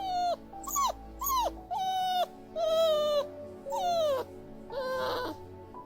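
Puppy whining in about seven short high-pitched whimpers, each sliding down in pitch, over quiet background music.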